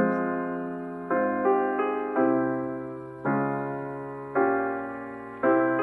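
Slow, gentle piano music: chords struck about once a second, each ringing on and fading before the next.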